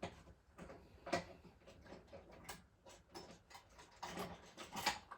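Irregular clicks and knocks of plastic model trains being handled and set down, with louder knocks about a second in and near the end.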